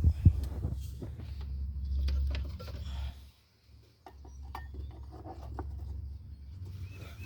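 Hand work on a car's under-dash blower-motor resistor: scattered light clicks and rubbing as the part is handled and fitted, over a low rumble. The sound drops out briefly a little past three seconds.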